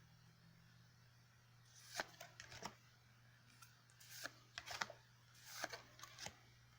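Yu-Gi-Oh! trading cards being handled and slid against one another, giving quiet short rustles and clicks in a few brief clusters after about two seconds of near silence.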